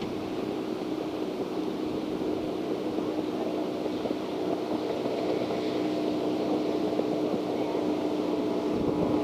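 A boat motor running with a steady hum, slowly growing louder, over wind and water noise.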